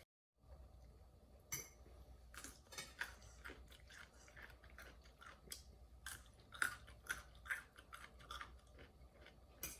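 A person chewing and eating food close to the microphone: faint, irregular wet and crisp mouth clicks, a few louder ones.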